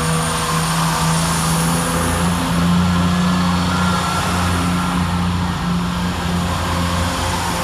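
CrossCountry Class 170 Turbostar diesel multiple unit's underfloor diesel engines running with a steady low drone as the train pulls out of the station. The engine note grows a little louder about two seconds in as it takes power.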